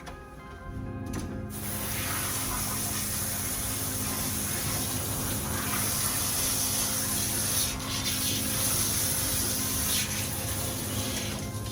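Water spraying steadily from a bathing hose or sprayer, starting about a second in.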